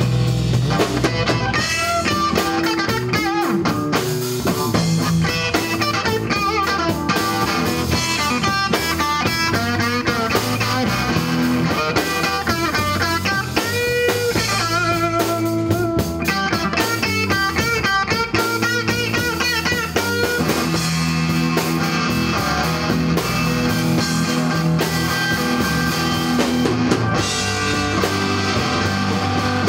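Rock band playing: electric guitar lines with bending notes over bass and a drum kit.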